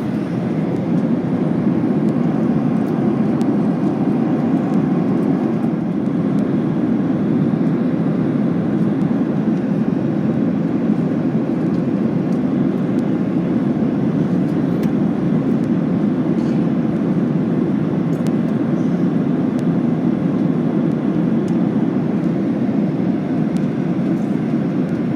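Steady cabin noise inside a Boeing 737-800 in cruise: the low, even rumble of its CFM56-7B jet engines and airflow over the fuselage.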